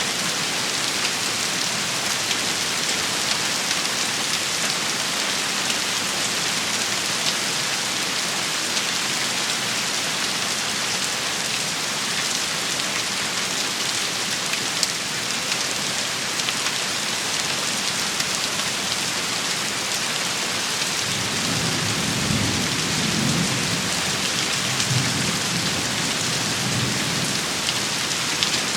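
Steady, heavy rain shower pattering on surfaces. A low rumble of distant thunder rolls in about two-thirds of the way through and lasts several seconds.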